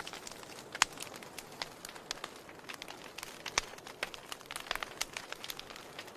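Wood fire burning in a fireplace: a steady low hiss with irregular sharp crackles and pops from the logs, the loudest pops about a second in and again past the middle.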